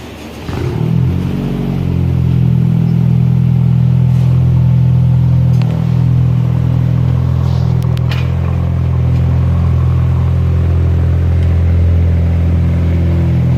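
Honda Civic Si's turbocharged 1.5-litre four-cylinder, straight-piped with its muffler and resonator deleted, coming in about half a second in, flaring briefly and then idling steadily with a deep exhaust note.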